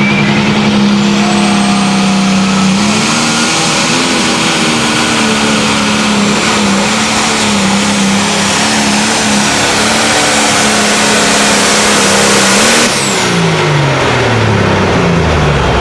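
A high-powered tractor engine running loud at high revs, its pitch holding steady with small wavers, then winding down in pitch about thirteen seconds in.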